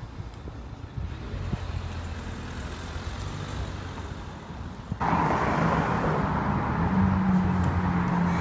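Quiet street traffic rumble, then about five seconds in an abrupt jump to a much louder car engine running steadily: a McLaren Senna's twin-turbo V8 as the car drives up the street.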